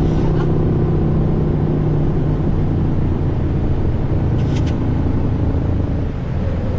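Jet airliner heard from the cockpit during takeoff just after V1: a steady loud rumble of engines at takeoff power and rushing air, with a low hum that fades a little past four seconds in, and a brief click about then.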